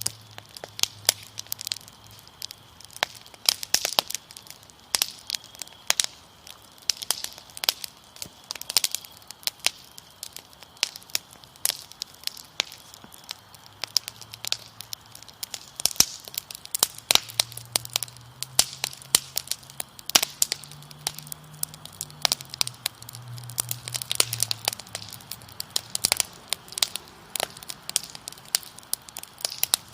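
Wood fire crackling, with dense irregular sharp pops and snaps, over a faint steady high trill of crickets.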